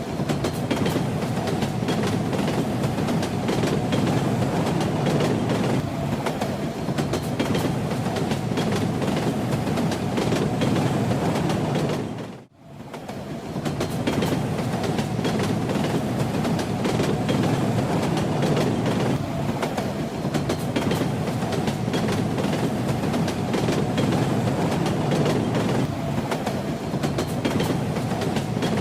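Train running on rails: a steady rumble with the clickety-clack of wheels over rail joints. About twelve seconds in, the sound briefly fades almost to silence and then comes back.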